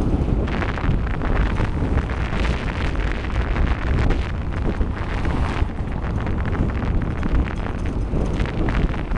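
Wind buffeting the microphone of a camera carried on a moving bicycle: a steady low rumble, broken by many short clicks and rattles.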